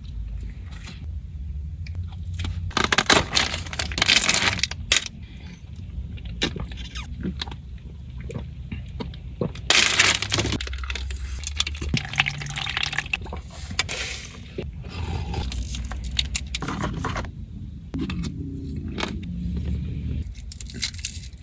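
Close-miked fast-food eating: chewing, crunching and liquid slurping sounds, with a few loud bursts near the start and around the middle, over a low steady hum.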